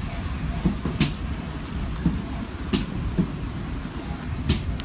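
Heritage railway passenger carriages at a station platform: a steady low rumble with three sharp knocks, evenly spaced.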